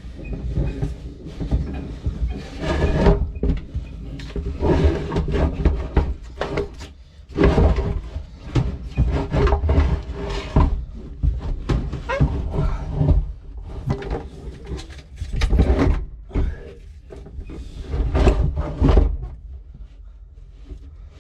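Irregular knocks, clunks and scraping of hands-on work in an aluminum boat's battery compartment, uneven in rhythm and loudness.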